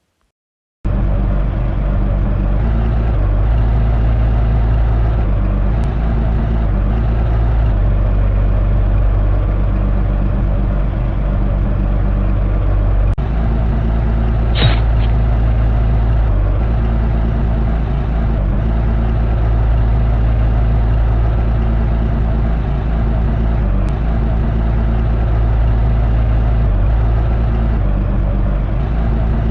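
Heavy tractor engine running at a steady idle, coming in abruptly about a second in. There is a brief high squeal about halfway through.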